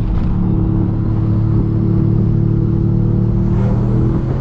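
Subaru WRX/STI turbocharged flat-four engine pulling hard under boost, heard from inside the cabin, with a steady note. Near the end the note breaks and changes as the throttle comes off.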